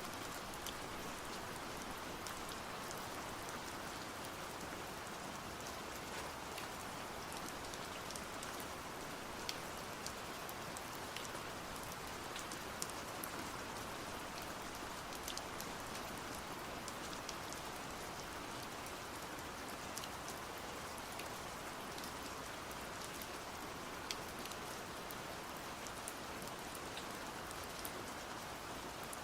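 Steady rain falling, an even hiss with many small drops tapping sharply on a surface.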